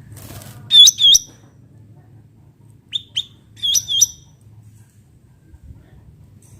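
Cucak ranting bulbul calling: short, sharp, high notes with a hooked twist, given in pairs. Two loud notes come about a second in, two short fainter ones about three seconds in, and two loud ones again about four seconds in, over a faint low hum.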